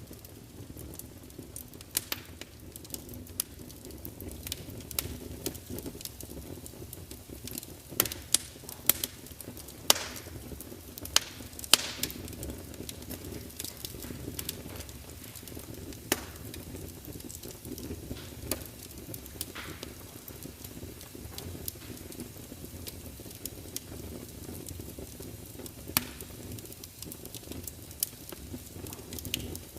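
Log fire in a large open fireplace crackling and spitting: a steady low rumble of flames under irregular sharp pops and snaps, a cluster of louder pops about a third of the way in, with brief hisses here and there.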